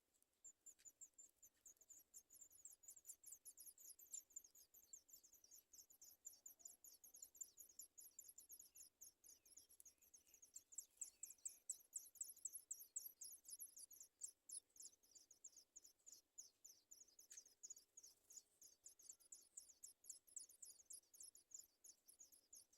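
Sooty chat nestlings begging for food: a rapid train of very high-pitched cheeps, several a second, starting about a second in and loudest around the middle.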